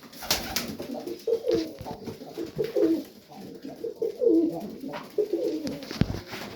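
Pigeons cooing, overlapping low warbling calls in a loft, with scattered light clicks and knocks.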